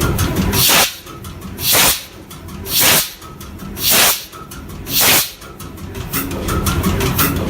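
Deutz 545 ship's diesel engine: its running rumble drops away about a second in, five loud hissing puffs follow about once a second, and the engine rumble picks up again near the end.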